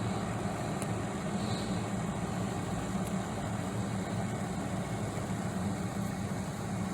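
MegaChef electric glass kettle heating water close to a full boil: a steady rumbling, bubbling sound, just before it switches itself off.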